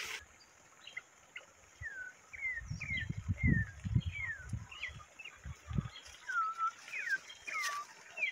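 Birds calling in short whistled notes, most sliding down in pitch, one after another throughout. Low rumbling thumps from the microphone and the walker's movement come in from about two seconds in and run for several seconds.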